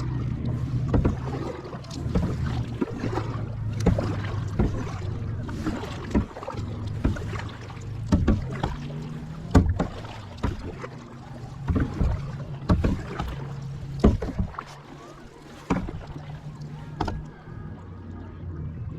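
Kayak paddling: paddle strokes with sharp knocks, about one a second, over a low steady hum.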